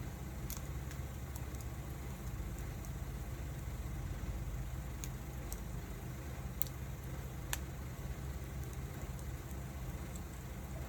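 Wood fire burning, with a handful of sharp crackling pops over a steady low rumble.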